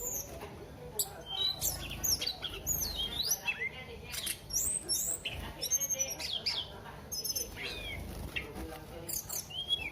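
Tledekan songbird singing a fast, varied song of short whistled notes that sweep up and down in pitch, one phrase after another with barely a pause.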